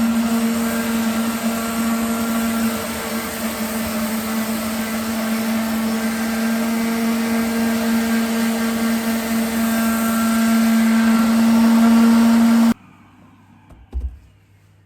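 Electric wood sander running on a tabletop while a vacuum draws off the dust: a loud, steady machine hum with a strong low tone. It cuts off suddenly near the end, and a single knock follows.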